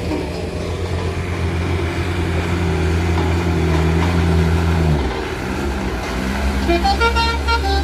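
Heavy truck's diesel engine labouring steadily on a steep climb, its note falling away about five seconds in. Near the end a run of short, high-pitched notes joins in.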